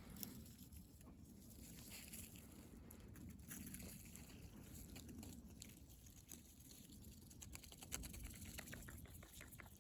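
Faint, scattered pecking and crunching of a duck foraging in the snow and garden.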